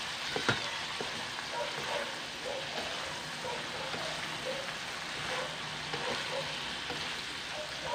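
Igado of sliced liver, meat and vegetables sizzling steadily in an oiled steel wok, nearly cooked, while a wooden spatula stirs and scrapes it, with a sharp knock of the spatula about half a second in.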